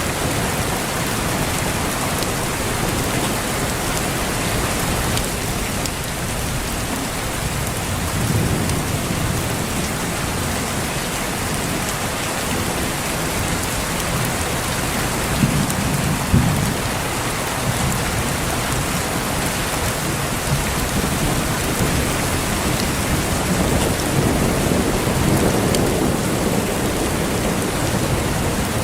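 Steady heavy rainfall with low, rolling thunder that swells up several times, the strongest rumble about halfway through.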